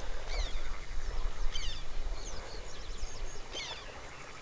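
Songbirds chirping around the water: many short, quick notes falling in pitch, over a low steady rumble.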